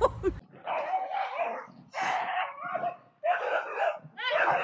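A dog barking about four times, roughly one bark a second, each bark rough and drawn out.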